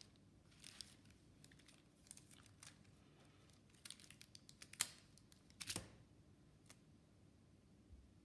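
Faint handling noises: scattered sharp clicks and short rustles, with the loudest pair just before and just after the middle.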